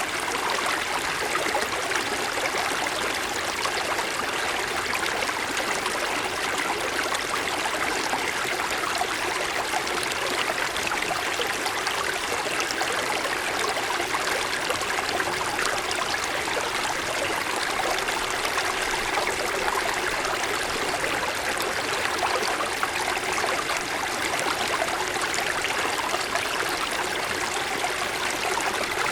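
Mountain stream running steadily over snow-covered stones, a continuous rushing with fine trickling and splashing.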